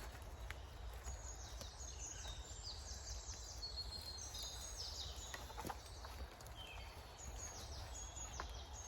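Small songbirds singing: faint, high, repeated twittering phrases that fall in pitch, over a low steady rumble, with a few sharp clicks.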